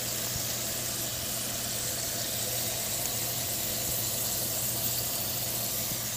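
Sardines frying in bacon grease in a nonstick frying pan: a steady, even sizzle.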